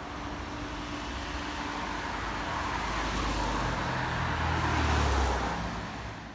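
City road traffic on a wet street, with the hiss of tyres on wet pavement and engine rumble; one vehicle comes close and passes, loudest about five seconds in.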